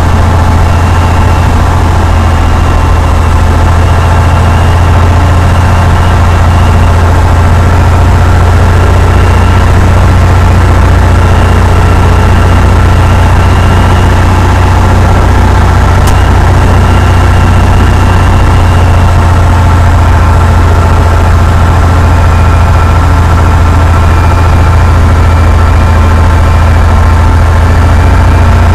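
Cessna 172's piston engine running steadily, a loud, even drone with a strong low hum that does not change.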